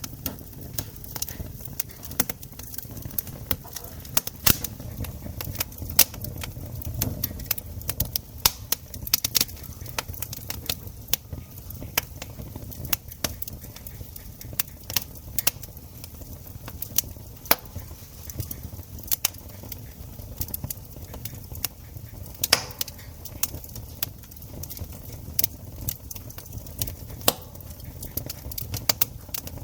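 Campfire wood crackling and popping: irregular sharp snaps, several a second, some louder than the rest, over a low steady rumble.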